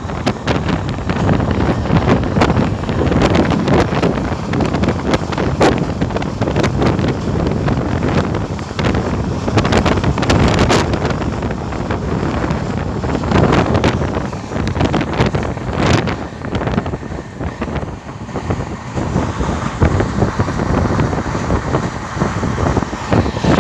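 Indian Railways passenger train running at speed, wind rushing loudly over the microphone held outside the coach, with the steady rumble of the wheels on the rails and frequent sharp clacks.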